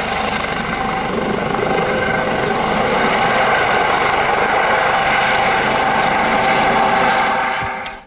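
Helicopter sound: a steady rapid rotor chop over engine noise, cutting off suddenly near the end.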